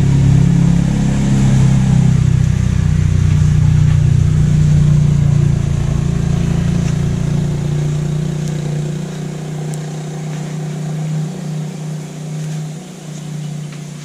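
Small Briggs & Stratton single-cylinder engine running steadily on a Bobcat 440B skid steer. It gets quieter in the second half, and its deepest rumble drops away about eight seconds in.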